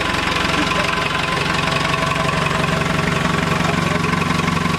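Tractor engine idling steadily with an even, fast pulse.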